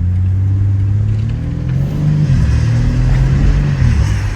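BMW G80 M3's twin-turbo inline-six engine under hard acceleration, its revs holding steady and then climbing and dropping several times.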